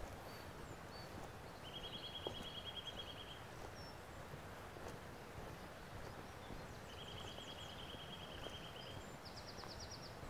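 Small songbird singing: two level, rapidly pulsed trills of about two seconds each, a few seconds apart, then a shorter, higher trill near the end, over a steady outdoor background hiss.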